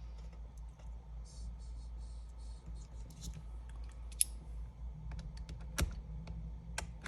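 Small hand tools clicking and scraping on an iPad during screen removal: light scraping in the first few seconds, then scattered sharp ticks, the loudest about four and six seconds in, over a low steady hum.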